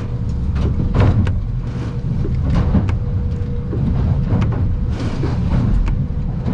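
Aluminium boat running through rough water, heard from inside its cabin: a steady low engine and hull rumble with a faint constant hum. Irregular knocks and splashy bursts run through it as the hull slams into swells and spray strikes the windshield.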